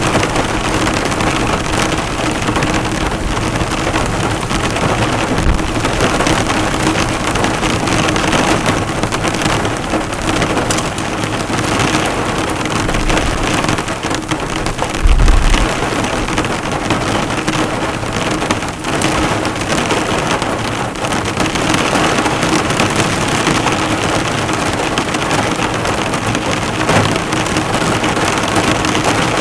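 Heavy rain drumming on a car, the drops bouncing off the bonnet, a dense steady patter. About halfway through comes a brief low rumble.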